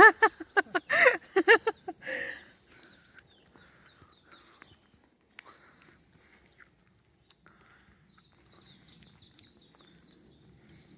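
A loud run of short, quick voice-like sounds for about two seconds at the start. Then faint bird chirps, with a quick high twittering run near the end over soft footstep-like rustling.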